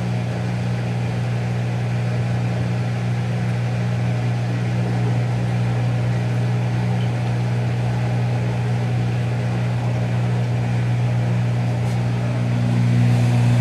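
Whirlpool Duet Sport front-load washer spinning its drum below full speed while draining: a steady low hum from motor and drain pump, a little louder near the end.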